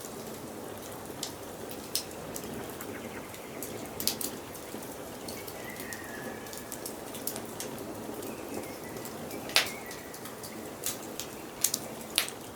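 Wood fire crackling, with sharp irregular pops over a steady hiss of flames; one louder pop comes about two thirds of the way through. Faint bird chirps sound in the background now and then.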